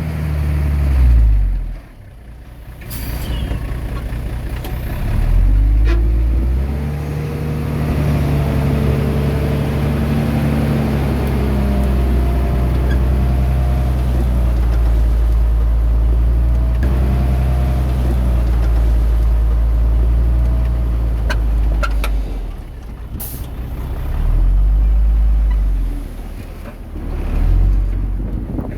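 Heavy diesel engine of earthmoving machinery working under load. It revs up a few seconds in, holds a steady, loud drone for about fifteen seconds, eases off, then revs briefly again. Two short hisses, one early and one near the end.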